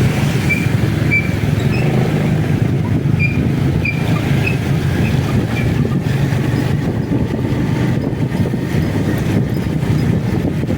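Motorcycle running steadily along a flooded road, with engine and road noise throughout. A series of short, high chirps sounds in the first half.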